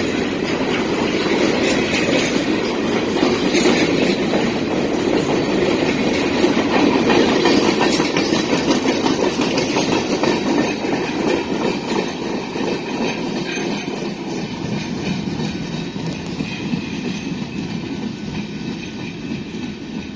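A long freight train of open-top hopper cars rolling past, steel wheels clicking over rail joints over a steady rumble. The sound fades over the last several seconds as the end of the train passes and moves away.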